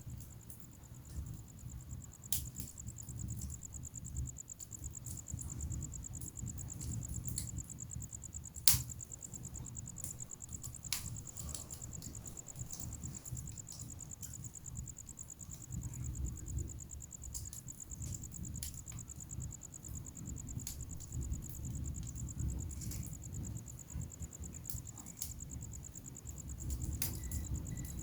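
Wood fire in a fireplace crackling, with the low rumble of burning logs and scattered snaps, and one sharp loud pop about nine seconds in. A steady, high, finely pulsing trill runs alongside.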